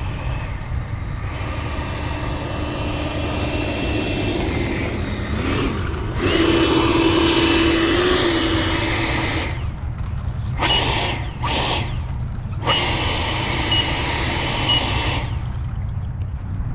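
Whine of an 80mm electric ducted fan on an RC jet. It runs steadily at first, gets louder with a small pitch wobble about 8 seconds in, then comes in several short bursts that start and stop sharply until about 15 seconds.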